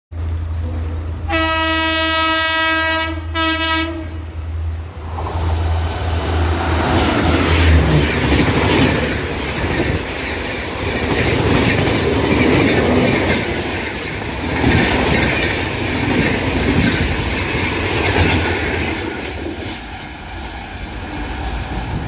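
Indian Railways electric express train sounding its horn, one long blast and then a short one, then passing at high speed with a loud rush of wheels clattering over the rails, which eases off near the end.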